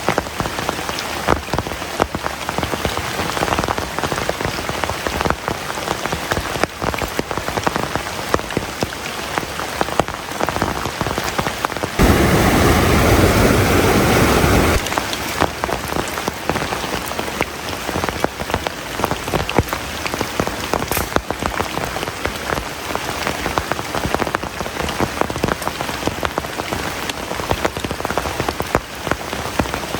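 Heavy rain falling, a steady rush with many separate drop hits. About twelve seconds in, a louder, deeper rush cuts in for about three seconds and stops abruptly.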